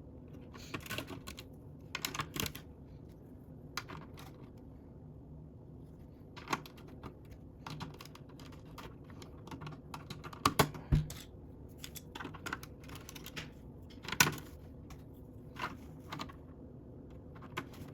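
Plastic Lego bricks clicking and rattling as they are handled and pressed together, in scattered irregular clicks with louder snaps about eleven and fourteen seconds in.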